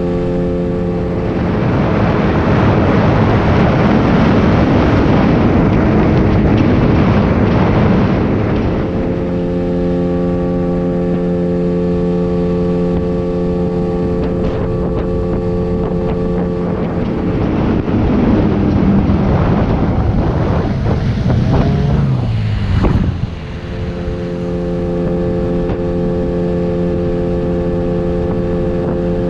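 9.8 hp outboard motor running flat out, driving an inflatable boat during a race, its engine note holding steady. A rushing noise swells over it twice, about a second in until about nine seconds in and again from about seventeen seconds in, and the sound dips briefly near the end of the second rush.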